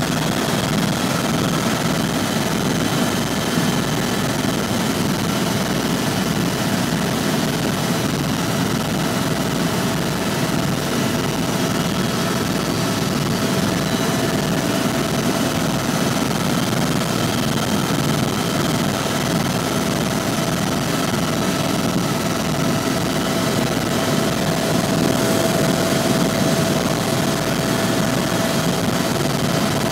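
Helicopter in level flight heard from inside the cabin: a steady engine and rotor drone with a fast, even low throb from the rotor blades and a steady whine above it.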